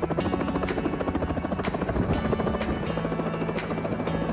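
Robinson R66 turbine helicopter hovering low, its Rolls-Royce RR300 turboshaft and two-blade main rotor running with a steady, rapid rotor beat, with background music over it.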